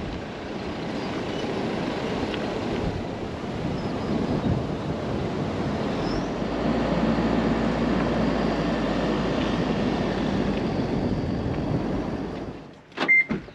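Steady road and wind noise of a vehicle under way, with a low rumble coming in about halfway through; it cuts off abruptly near the end.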